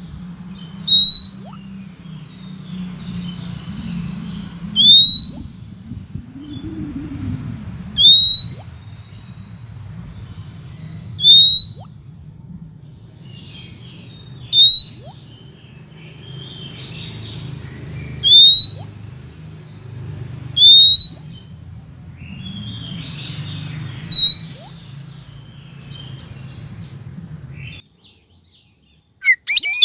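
Female oriental magpie-robin giving a short, rising, whistled call, loud and repeated about every three to four seconds, eight times in all. Fainter chirps and a low hum lie underneath.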